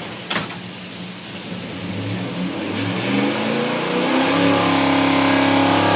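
582 cubic-inch V8 race engine running, its revs climbing gradually over a couple of seconds and then holding steady at a higher speed. A short sharp click comes just before the rise.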